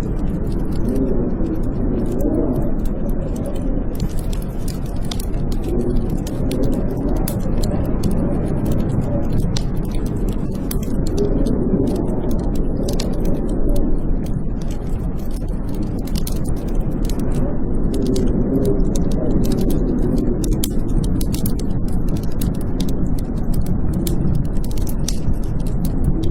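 Blizzard wind howling, a steady low rushing that swells and wavers every few seconds, with a wood fire crackling over it in many small sharp pops.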